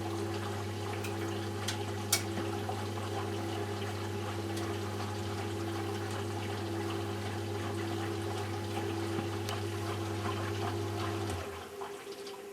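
Eudora Sparmeister 702 washing machine in its pre-wash: the drum motor hums steadily as it turns the drum, with water sloshing and splashing inside, then the motor stops about eleven seconds in, the pause before the drum reverses.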